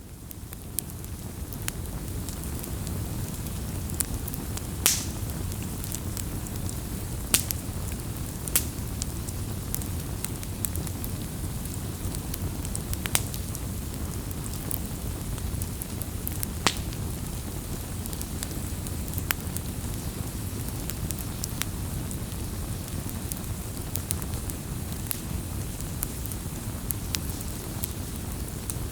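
Wood campfire burning, with a steady low rumble of flames and irregular sharp crackles and pops from the burning wood. The sound fades in at the start.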